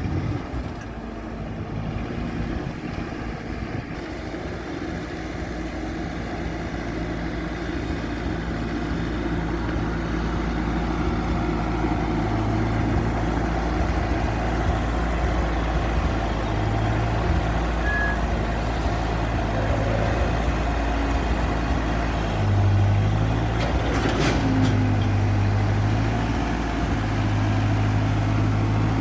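1949 Ford 8N tractor's four-cylinder flathead engine running steadily, its note shifting up and down a few times as it works.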